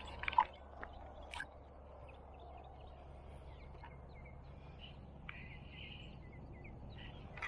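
Faint scattered bird calls over a low steady outdoor rumble, with a sharp click about half a second in.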